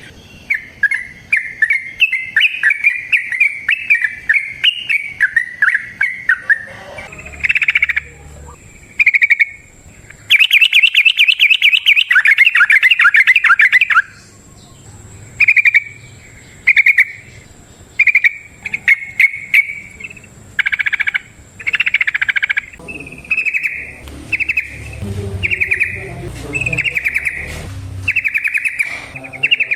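Yellow-vented bulbul (trucukan) singing in short, bubbly chattering phrases. About a third of the way in it breaks into a long, loud run of rapid notes lasting some four seconds, then returns to short phrases repeated about once a second.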